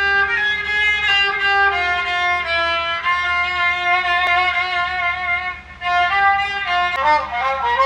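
Iraqi joza, a bowed spike fiddle, playing a solo melody of long held notes. It breaks briefly a little before six seconds in, then goes on with quicker ornamented notes.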